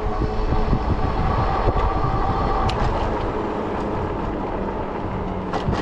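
Ecotric 20-inch fat-tire e-bike riding along: steady rolling and wind noise, with a steady whine during the first three seconds and a few light clicks, with the rear tire now mounted the right way round.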